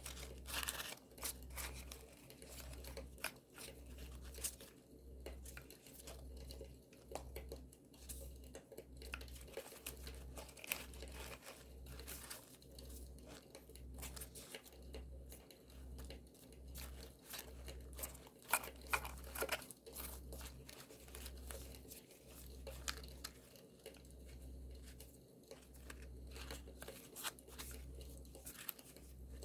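Paper being handled, torn and crinkled for journal scrapbooking, in many short rustles and sharp crackles. A campfire's crackling is mixed in underneath.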